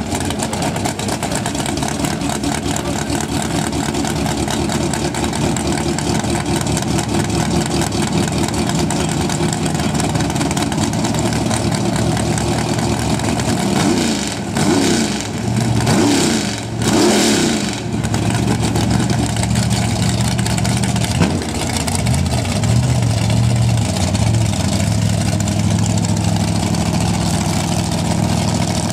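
Outlaw drag racing car engine running loudly at idle at the starting line, with a few short revs about halfway through.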